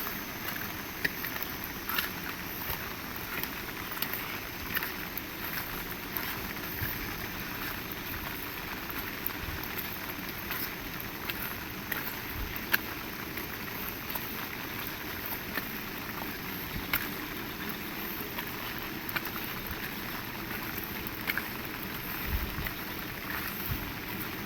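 Heavy rain falling steadily: a dense, even hiss, with scattered sharper taps of drops striking nearby surfaces.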